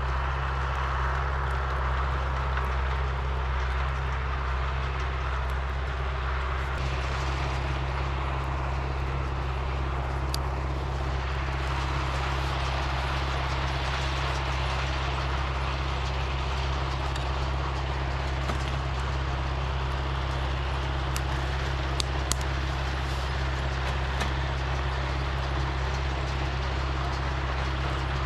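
An engine running steadily with a low, even drone under a wash of noise, as from a vehicle or machine. A couple of sharp clicks come near the end.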